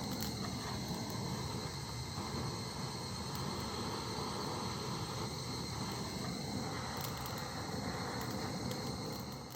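Outdoor ambience: a steady, high insect trill over a low rushing noise, with a few faint clicks. It fades and cuts off at the end.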